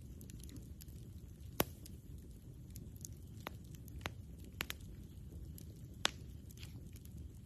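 Wood campfire crackling: scattered sharp pops of burning wood, the loudest about a second and a half in and another near six seconds, over a low steady rumble.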